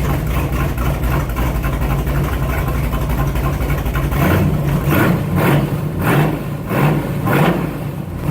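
1970 Chevrolet Chevelle engine running through short glass-pack exhausts welded straight onto the headers, idling steadily and then revved in about five quick blips in the second half.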